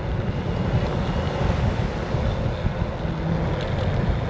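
Heavy wind buffeting the microphone while on the move: a loud, steady, rumbling rush of noise.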